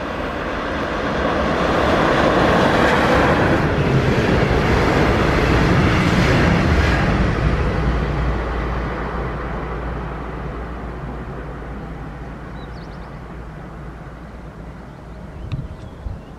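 A locomotive-hauled train of double-deck coaches passing close by: its rumble and wheel noise build to a peak a couple of seconds in, then die away slowly as the train runs off down the line, leaving a low hum.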